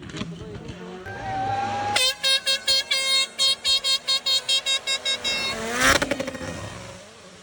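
A horn sounded in quick repeated blasts, about four a second, for nearly four seconds starting about two seconds in, after a passing vehicle fades at the start. A short sharp sound follows near the end of the blasts.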